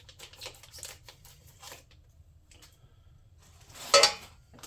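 Plastic packaging being cut open by hand: small clicks and rustles of cutting and handling, then a short loud burst about four seconds in as the wrapping gives way.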